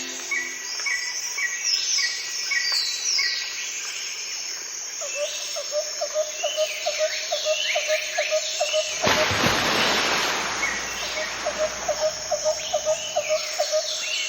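Birds calling and chirping together, many short high whistles and chirps overlapping, with two runs of a lower note repeated about three times a second. A rush of noise lasting about a second and a half comes near the middle.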